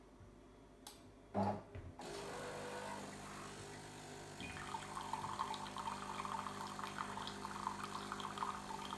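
De'Longhi bean-to-cup espresso machine making a standard coffee. A clunk comes about one and a half seconds in, then the machine starts about two seconds in with a steady running hum. It gets louder and rougher from about four and a half seconds in, a sound the owner calls really quite loud.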